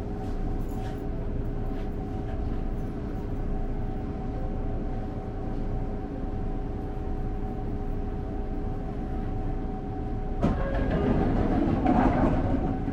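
Electric commuter train standing still, heard from inside the driver's cab: a steady hum from its onboard electrical equipment over a low rumble. About ten seconds in, a louder, busier noise rises.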